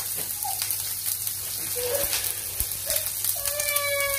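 Chicken frying in hot oil in a pan: steady sizzling with frequent spattering pops. A short held voice is heard near the end.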